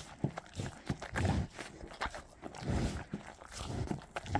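A cow excitedly greeting a person at close quarters: low breathy puffs about once a second, mixed with light knocks and shuffling.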